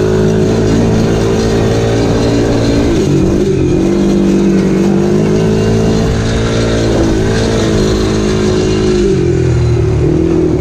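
Dirt bike engine running at a steady throttle while riding. Its pitch dips about three seconds in and again near the end, as the throttle eases off and comes back on.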